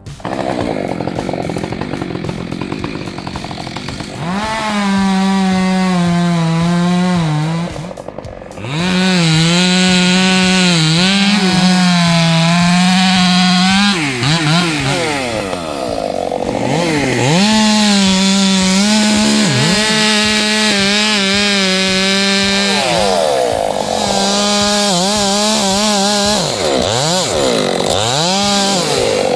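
Chainsaw running at high revs while cutting wood. Its pitch holds steady for a few seconds at a time, then sags and sweeps down and back up several times as the throttle is let off and opened again between cuts.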